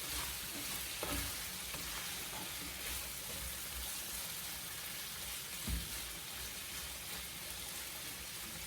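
Sliced bell peppers and tomato sautéing in hot oil in a pan, a steady frying sizzle, with a couple of faint knocks from stirring.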